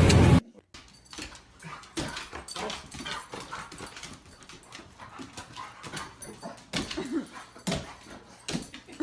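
A dog whimpering in short, soft whines, with scattered small clicks and knocks. A loud rushing noise cuts off abruptly at the very start.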